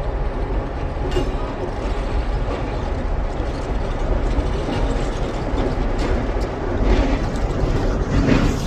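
Diesel switcher locomotive backing a cut of freight cars, a steady low rumble of the engine and rolling wheels. A few short metallic knocks come in the last few seconds.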